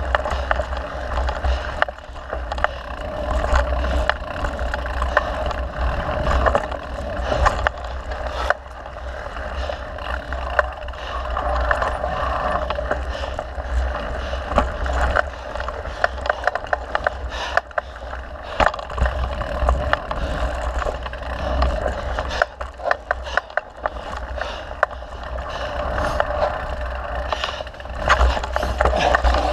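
Mountain bike being ridden over a dirt trail: wind buffeting the microphone, tyres rolling and scraping over the ground, and the bike rattling and clicking over bumps.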